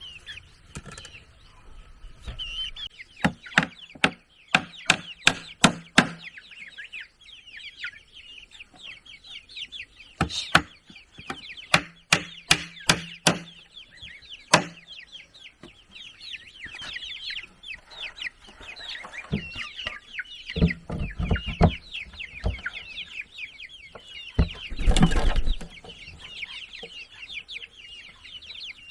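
Chickens clucking, with several runs of sharp knocks in quick succession, about two to three a second, and a louder, rougher stretch of noise near the end.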